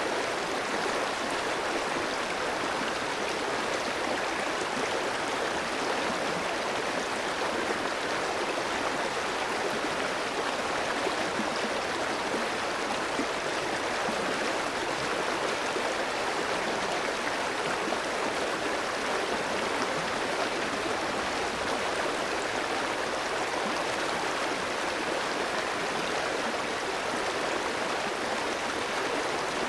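Clear mountain stream flowing over rocks: a steady, even rush and babble of water.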